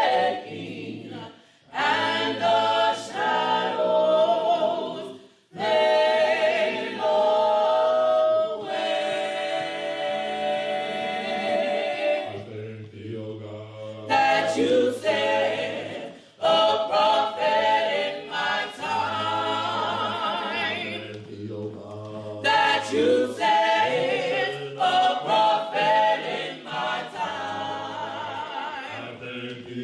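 An a cappella choir sings a slow gospel hymn in phrases with short breaths between them, holding one long chord about a third of the way through.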